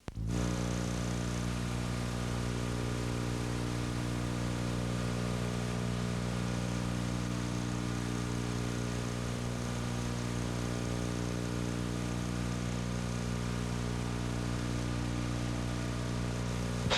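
A steady low hum at one constant pitch, unchanging in level, starting right at the beginning.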